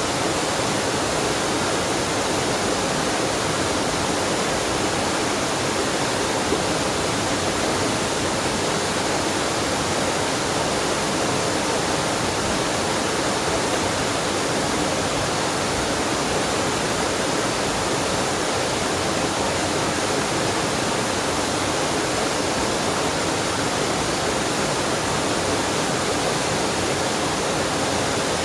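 Waterfall and mountain-stream water rushing steadily, an even, unbroken noise.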